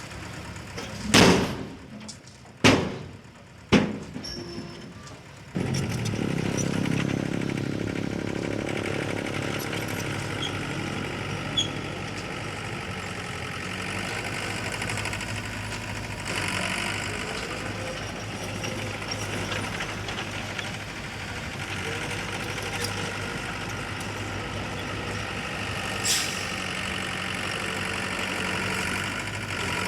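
Three loud, sharp knocks in the first few seconds, then a heavy machine's diesel engine that comes in suddenly about five seconds in and runs steadily.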